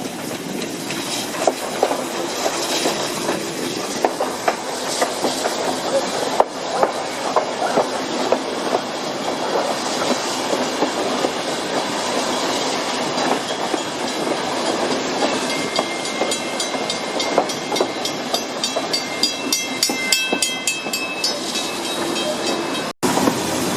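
Steam-hauled passenger train running along the track: a steady rumble with the clickety-clack of wheels over the rail joints. A high wheel squeal joins in for a few seconds past the middle.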